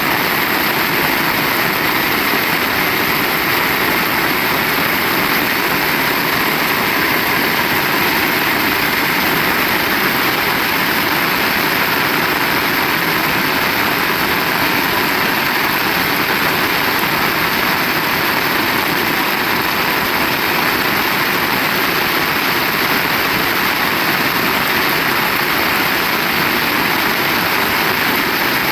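Heavy rain falling steadily: a loud, dense, even hiss with no breaks.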